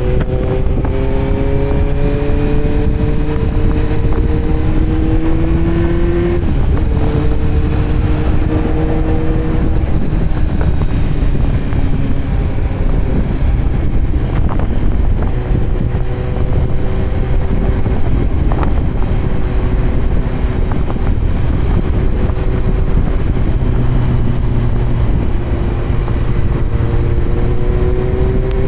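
2018 Kawasaki Z900's inline-four running through a Yoshimura muffler and Delkevic headers with no dB killer, under way: the revs climb steadily, drop sharply at a gear change about six and a half seconds in, ease off in the middle, and climb again near the end, over a constant low rush.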